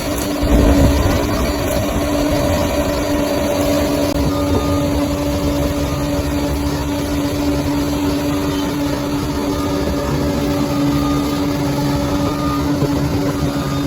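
Bulldozer's diesel engine running steadily, with a brief surge of low rumble about half a second in.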